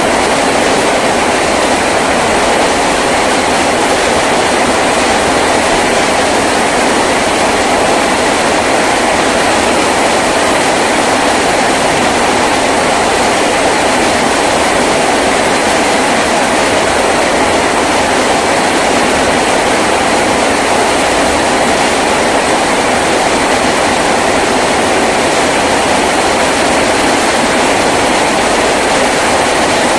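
Heavy rain drumming on a tin roof in a steady, dense downpour.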